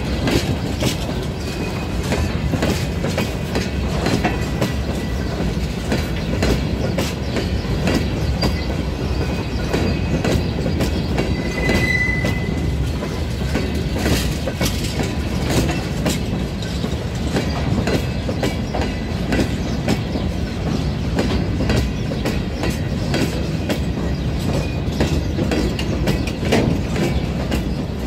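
Freight train of open-top wagons rolling past close by: a steady rumble of wheels on rail with a constant run of clacks as the wheelsets cross rail joints. A brief high squeal about twelve seconds in.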